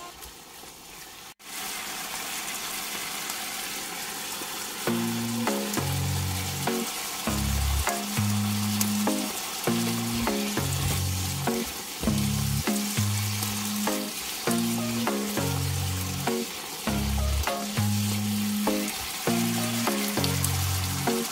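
Shiitake mushrooms sizzling in a hot pan of oil and sauce, stirred with a spatula, a steady frying hiss that starts about a second in. About five seconds in, background music with a repeating low bass line comes in underneath.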